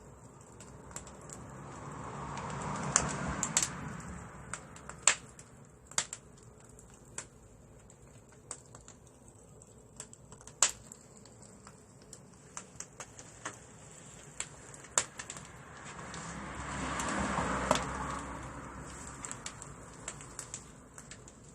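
Wood fire crackling and popping in the firebox of a wood-fired pottery kiln: irregular sharp snaps, with two slow swells of rushing flame noise that build and fade, one near the start and one about three-quarters of the way through.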